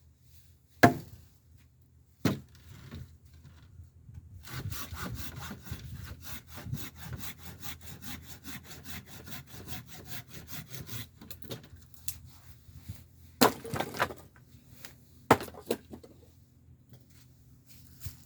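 Scrap wood being cut with a hand saw: a fast, even run of back-and-forth strokes for about seven seconds. Sharp wooden knocks come twice before it and four times after it.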